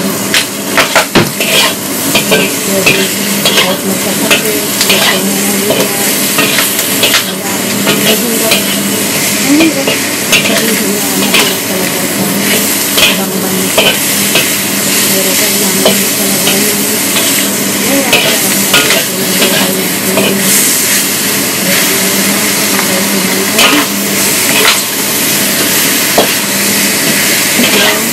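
Food frying and sizzling in a wok over a gas flame, with a spatula stirring and scraping in the pan, making frequent short clicks and knocks against the metal.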